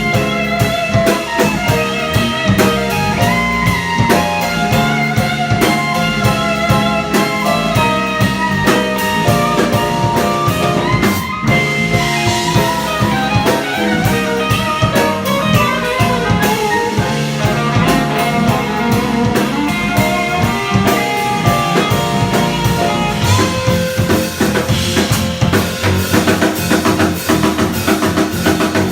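Jazz band of guitar, piano, bass and drum kit playing an instrumental tune live, with a line of quick melodic notes over walking bass and drums.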